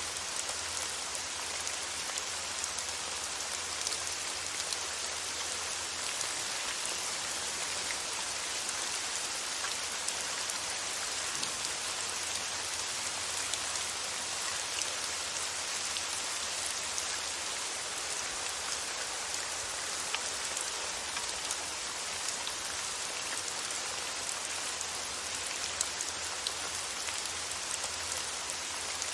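Steady rain falling on a surface, an even hiss with scattered small drop ticks, under a faint low hum.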